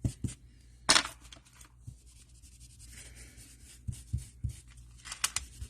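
Scattered handling noises of crafting supplies on a work table: short scraping rubs, the loudest about a second in and a few more near the end, and soft light knocks in between.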